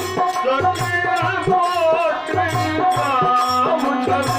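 Instrumental interlude of a devotional Ramayan song: a tabla beat in teen taal with small cymbals or a rattle jingling, under a bending melodic line.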